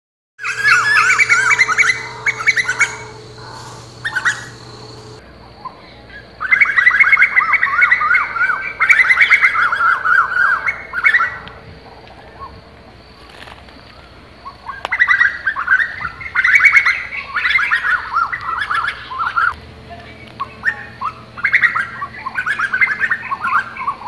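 Birds calling in four bouts of fast, shrill chattering, each lasting a few seconds, with short pauses between them.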